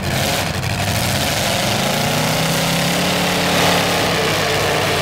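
Eight-cylinder demolition derby car engines running loud, one revving with its pitch rising and falling as the cars manoeuvre and push against each other.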